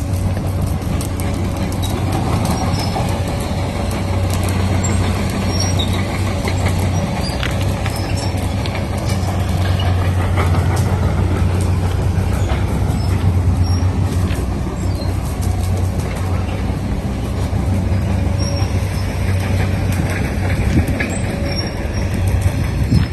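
Used hydraulic excavator's diesel engine running steadily with a deep, constant hum, with scattered light clicks and knocks over it.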